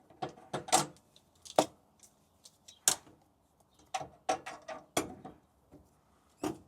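Irregular sharp clicks and knocks of a tool on the water heater's pipe fittings as the hot-side lines are cracked open.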